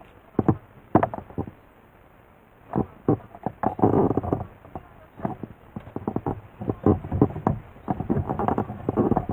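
A string of irregular knocks and bumps, with a rougher, denser stretch about four seconds in and another near the end.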